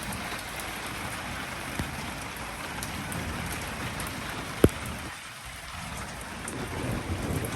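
Heavy thunderstorm rain falling steadily on hard surfaces, with a single sharp tap a little over halfway through.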